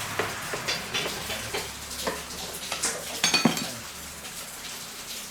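Metal tools and small metal parts clinking and knocking together, a scatter of sharp clinks with brief ringing. The loudest cluster comes about three seconds in.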